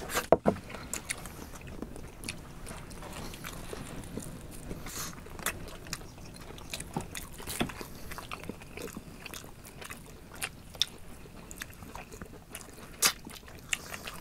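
People chewing and gnawing khorkhog meat off the bone, with scattered short sharp clicks.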